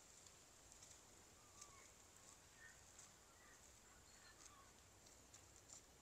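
Near silence: faint park ambience with a few soft, scattered bird chirps.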